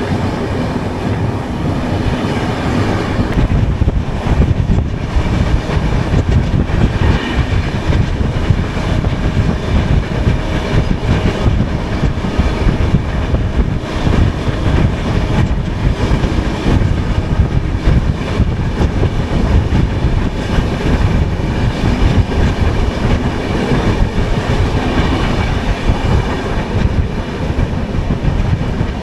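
Express passenger train running, heard from inside a sleeper class coach by its open barred window: a steady, loud rumble and rattle of the wheels on the rails.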